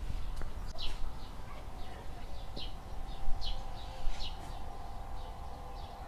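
Small birds chirping: short, high, falling chirps repeated every half second or so, over a faint steady hum and a low rumble.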